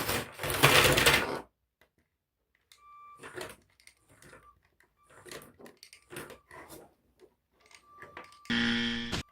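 Lego car's Power Functions M motors and plastic gears whirring and rattling as it drives through sand, in short stop-start bursts with gaps of silence between them. A loud scraping stretch comes first, and a brief buzzing whine comes near the end.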